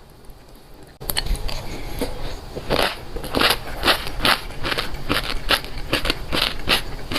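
Close-up chewing of crunchy food: a quick run of loud crisp crunches at about three a second. It starts abruptly about a second in.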